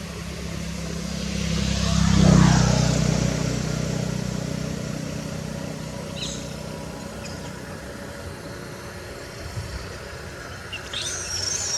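A motor vehicle driving past close by: its engine hum swells to a peak about two seconds in and then slowly fades away.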